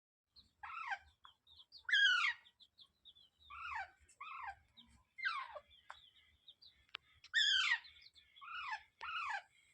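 Parrot calling: a series of about nine harsh calls, each sliding down in pitch, at irregular intervals, with faint short chirps between them.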